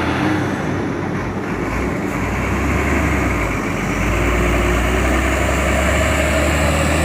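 Heavy truck's diesel engine running under load, a steady low rumble that grows a little louder about four seconds in.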